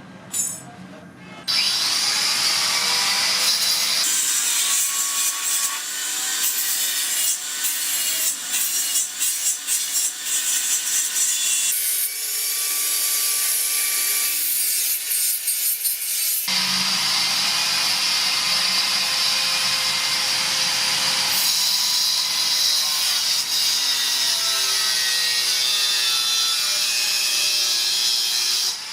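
A handheld power tool working steadily on the tail light's plastic housing, a continuous grinding noise with a faint whine that shifts in pitch as the load changes. It starts about a second and a half in.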